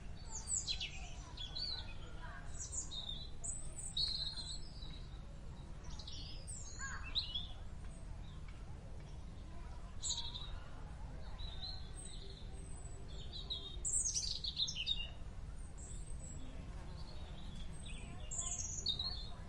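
Several small birds singing and chirping: a scatter of short, high chirps and quick down-sweeping notes, over a steady low rumble.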